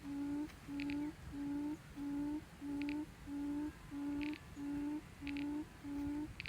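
Birds calling: a low hooting note repeated evenly about one and a half times a second, with short high chirps now and then.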